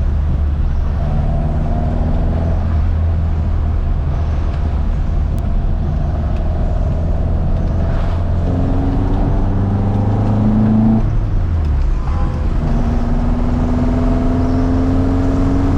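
1975 Ford Escort Mk1's four-cylinder engine on twin Weber carburettors, driving and accelerating with rising revs. The revs fall back briefly about eleven seconds in, then climb again.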